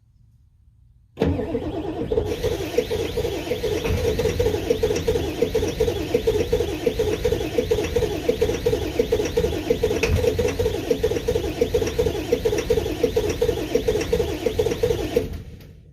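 A straight-piped 7.3 turbo diesel on a cold start at 10 °F with bad glow plugs: a loud, rhythmic chugging starts suddenly about a second in, runs for about fourteen seconds, then dies away near the end.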